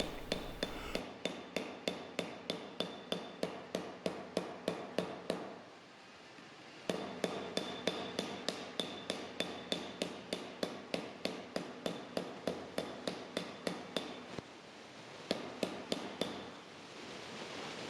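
Flat smoothing hammer tapping quickly and evenly on a 3D-printed plastic forming mold clamped over sheet metal on an anvil, about three light strikes a second, driving the logo relief into the metal. The tapping pauses briefly twice, about six and fifteen seconds in.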